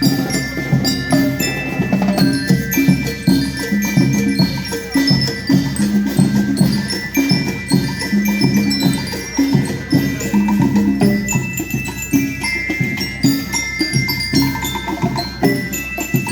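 School rhythmic band playing: bell lyres ring out a melody over a steady beat of drums.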